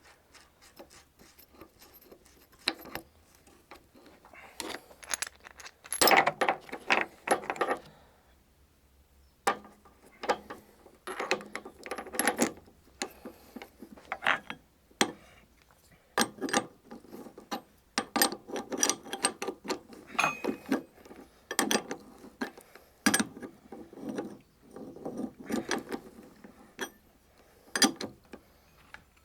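Ratchet wrench clicking in runs of quick clicks, with metal tool clinks, as the top nut of a strut mount is screwed down.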